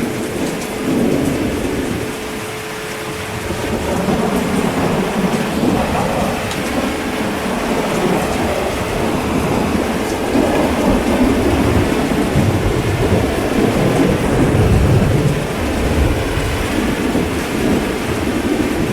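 Heavy rain falling steadily, with rolling thunder rumbling underneath. The rumble swells from a few seconds in and is strongest in the second half.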